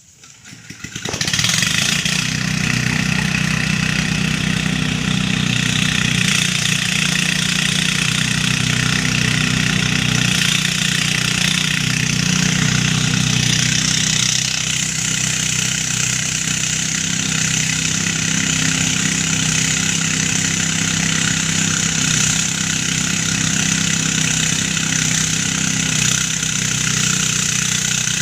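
Motorised rice thresher (gerendel) with its small engine starting up about a second in, then running steadily at a constant speed with a hissing whir from the machine; the hiss grows brighter about halfway through.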